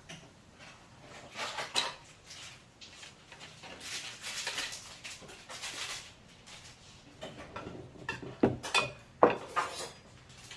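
Irregular clicks, knocks and clatter of small hard objects being handled, with a stretch of scraping or rubbing about four seconds in and two sharp knocks near the end.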